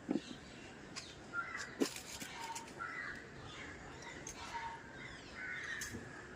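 A bird calling from outside with hoarse caws, three of them spaced about a second and a half to two and a half seconds apart, over a few faint clicks.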